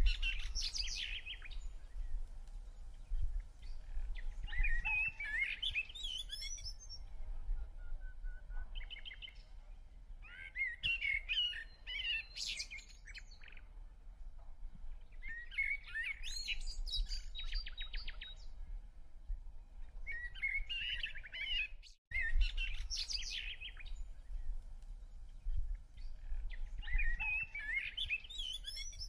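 A songbird singing short, warbling bouts of quick high notes, one every four to six seconds, over a steady low rumble. The sound drops out for an instant about three-quarters of the way through.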